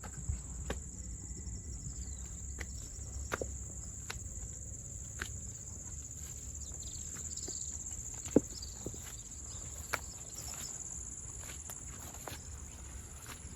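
Irregular footsteps of someone walking on a path, one step sharper and louder than the rest a little past the middle, over a steady high-pitched insect drone.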